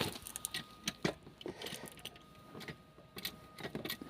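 Scattered light metallic clicks and knocks at irregular intervals, from tools and parts being handled while a wooden block and jack are set up to raise the engine.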